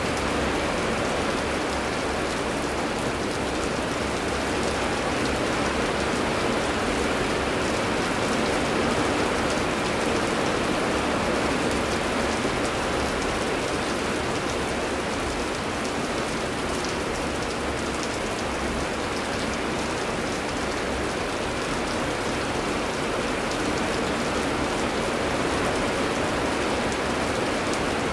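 Steady heavy rain pouring, a dense even hiss of drops with no lulls.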